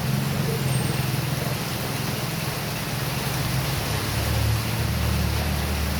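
Heavy rain falling in a steady hiss, with a motor vehicle's engine humming low underneath; the hum drops in pitch about four and a half seconds in.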